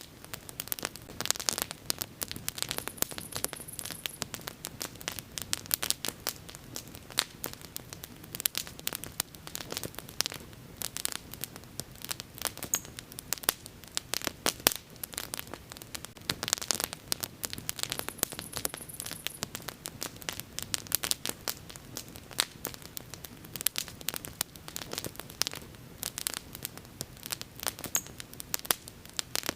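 Wood bonfire burning, with dense, irregular crackles and snaps over a steady low rush of flame.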